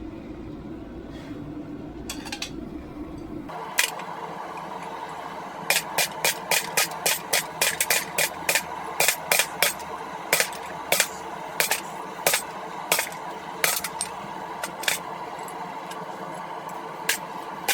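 Hand hammer striking hot steel on an anvil: a steady run of sharp, ringing blows, about two to three a second, that thins out to scattered strikes in the last few seconds, over a steady hum. The first few seconds hold only a low rumble before the hammering starts.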